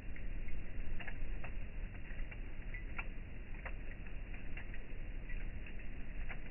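Campfire crackling: irregular sharp pops of burning wood over a steady low rumble.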